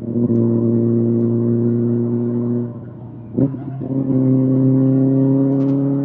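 Kawasaki ZX-6R inline-four through an SC-Project SC-1R aftermarket exhaust, held at steady raised revs. About three seconds in it drops back with a quick blip of the throttle, then holds steady again.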